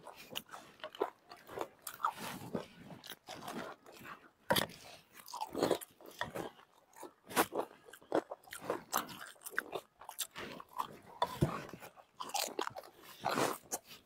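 People eating gupchup (pani puri): irregular crunches as the crisp hollow puri shells are bitten, with chewing between them.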